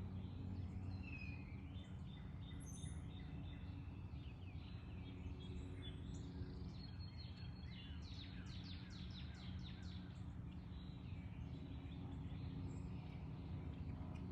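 Small birds chirping over a steady low background hum. About halfway through comes a quick run of short, falling chip notes, roughly five a second.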